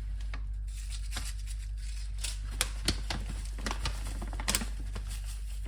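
Scattered light clicks and taps, a few of them sharper, over a steady low hum.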